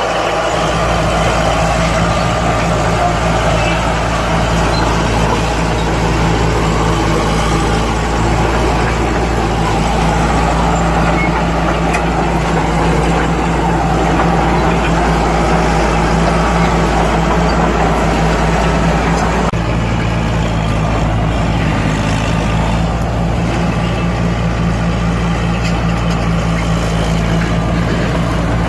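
Bulldozer's heavy diesel engine running steadily under work, with a deep constant rumble; the engine note shifts slightly about two-thirds of the way through.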